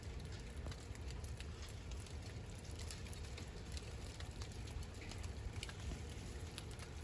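Snow melting off trees in the sun: a steady patter of drips and small clumps landing on the snow, with scattered light ticks.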